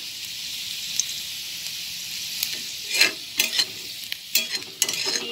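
Sliced onion and green chillies sizzling steadily in hot oil in a wok. A metal spatula scrapes and knocks against the pan in short strokes about halfway through and again near the end.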